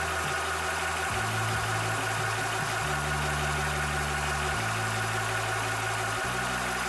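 Cobra high-pressure PCP air compressor running steadily while pumping, a continuous mechanical hum with hiss.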